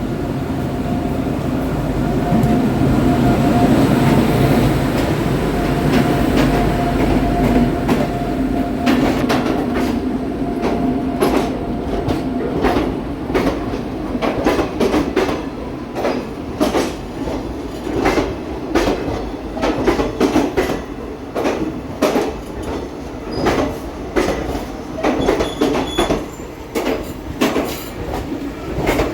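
A WAG-9 electric locomotive and its passenger coaches rolling past: a steady rumble with a held whine as the locomotive goes by, then, from about ten seconds in, the coaches' wheels clattering over rail joints in a regular clickety-clack.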